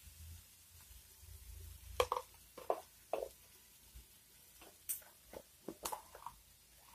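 Grated raw mango, onions and curry leaves frying in oil in a kadai, giving faint scattered pops and crackles, several in quick succession between about two and six seconds in.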